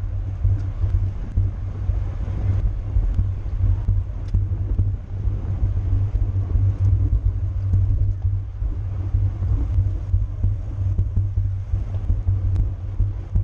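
Wind and road rumble on a camera riding on a racing bicycle at speed: a heavy, steady low rumble throughout, with scattered faint clicks.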